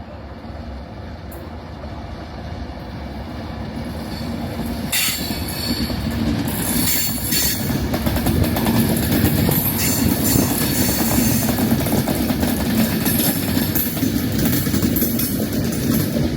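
A passenger train approaching on the rails, growing louder over the first several seconds, then running past steadily at close range.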